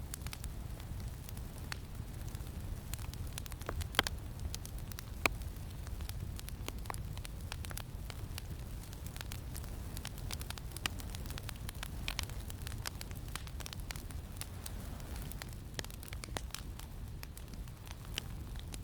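Campfire crackling with scattered small pops and two sharper snaps about 4 and 5 seconds in, over a steady low rumble of wind.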